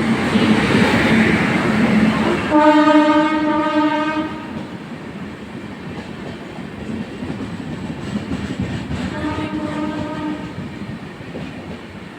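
Passenger train rolling into the platform, with rumble and clatter from wheels on rails. A train horn sounds one loud blast about two and a half seconds in, lasting under two seconds, then a shorter, fainter blast around nine seconds in.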